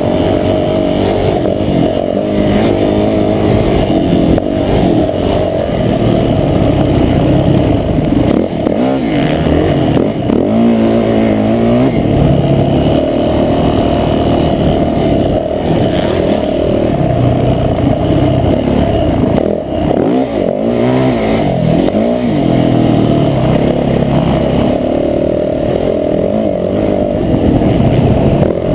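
Motocross bike engine revving up and down as it is ridden round the track, the pitch climbing and dropping again and again as the throttle is opened and shut.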